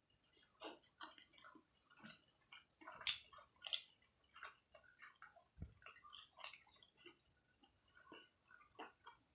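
Close-miked wet chewing and lip smacking of juicy momos, with many small irregular clicks and slurps.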